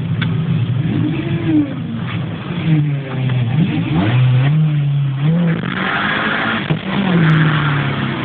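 Toyota Celica's engine heard from inside its stripped cabin, revving up and down again and again as the car is driven hard.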